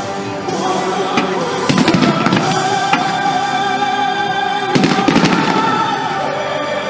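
Fireworks display: volleys of cracking and banging bursts about two seconds in and again near five seconds, over music timed to the display.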